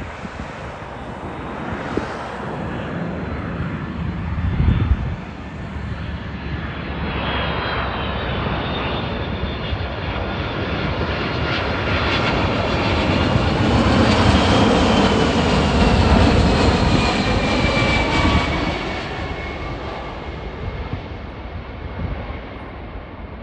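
Jet airliner on final approach passing low overhead: the engine noise swells to its loudest a little past halfway, with a whine that falls in pitch as it passes, then fades. Gusty wind hits the microphone, hardest about five seconds in.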